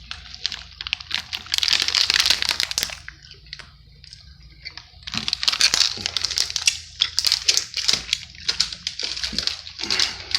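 A crunchy snack being chewed close to the microphone: dense crackling crunches in two stretches, a short one about a second in and a longer one from about five seconds in.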